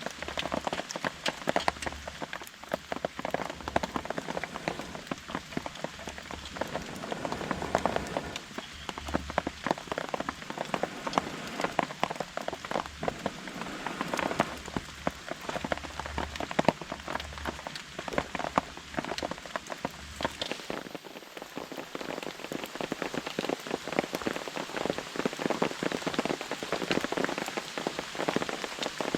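Steady rain drumming on a nylon camping tarp overhead, a dense patter of countless individual drops.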